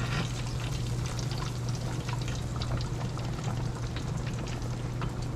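Chicken fried steak frying in hot grease in a pan: a steady sizzle with many small crackles and pops, over a steady low hum.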